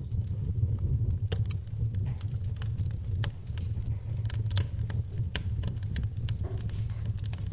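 Wood fire in a fireplace crackling: a steady low rumble of burning with frequent irregular sharp pops and snaps.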